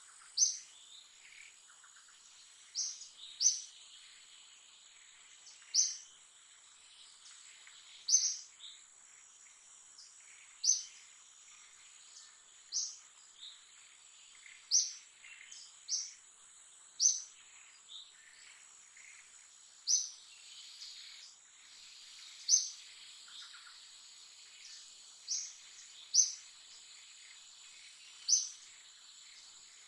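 Outdoor animal sounds: a short, sharp, high chirp repeating about every two seconds over a steady, high-pitched insect drone.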